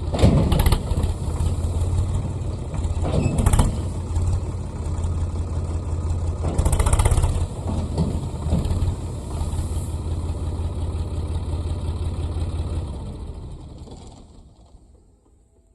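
Sonalika DI 42 RX tractor's diesel engine running steadily, surging louder three times, a few seconds apart. It dies away over the last two seconds.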